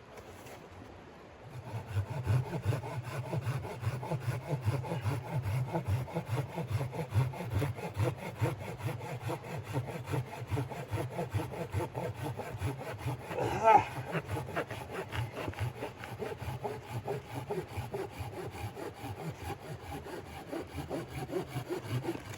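Hand saw cutting through wood with steady, quick back-and-forth strokes, starting about a second and a half in, with one sharper knock about fourteen seconds in.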